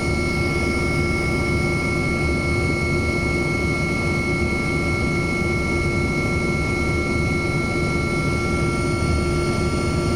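Aircraft engine running steadily: a constant low drone with several high, steady whining tones over it.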